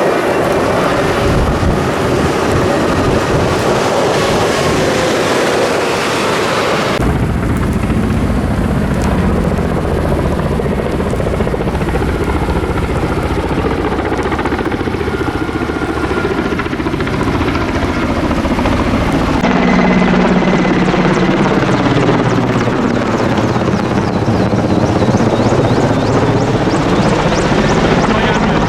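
Firefighting helicopter flying overhead, its rotor and engine running loud and steady. The sound shifts abruptly about seven seconds in and again around twenty seconds in, with a sweeping, phasing quality in the last part as it passes.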